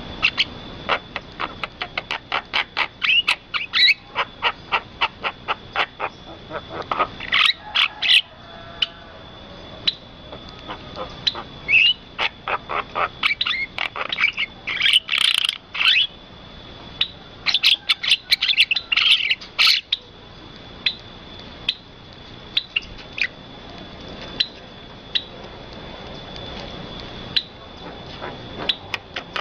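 Birds calling in rapid runs of short, sharp chirps, several a second, busiest in the first two-thirds and sparser near the end, over a steady high-pitched tone.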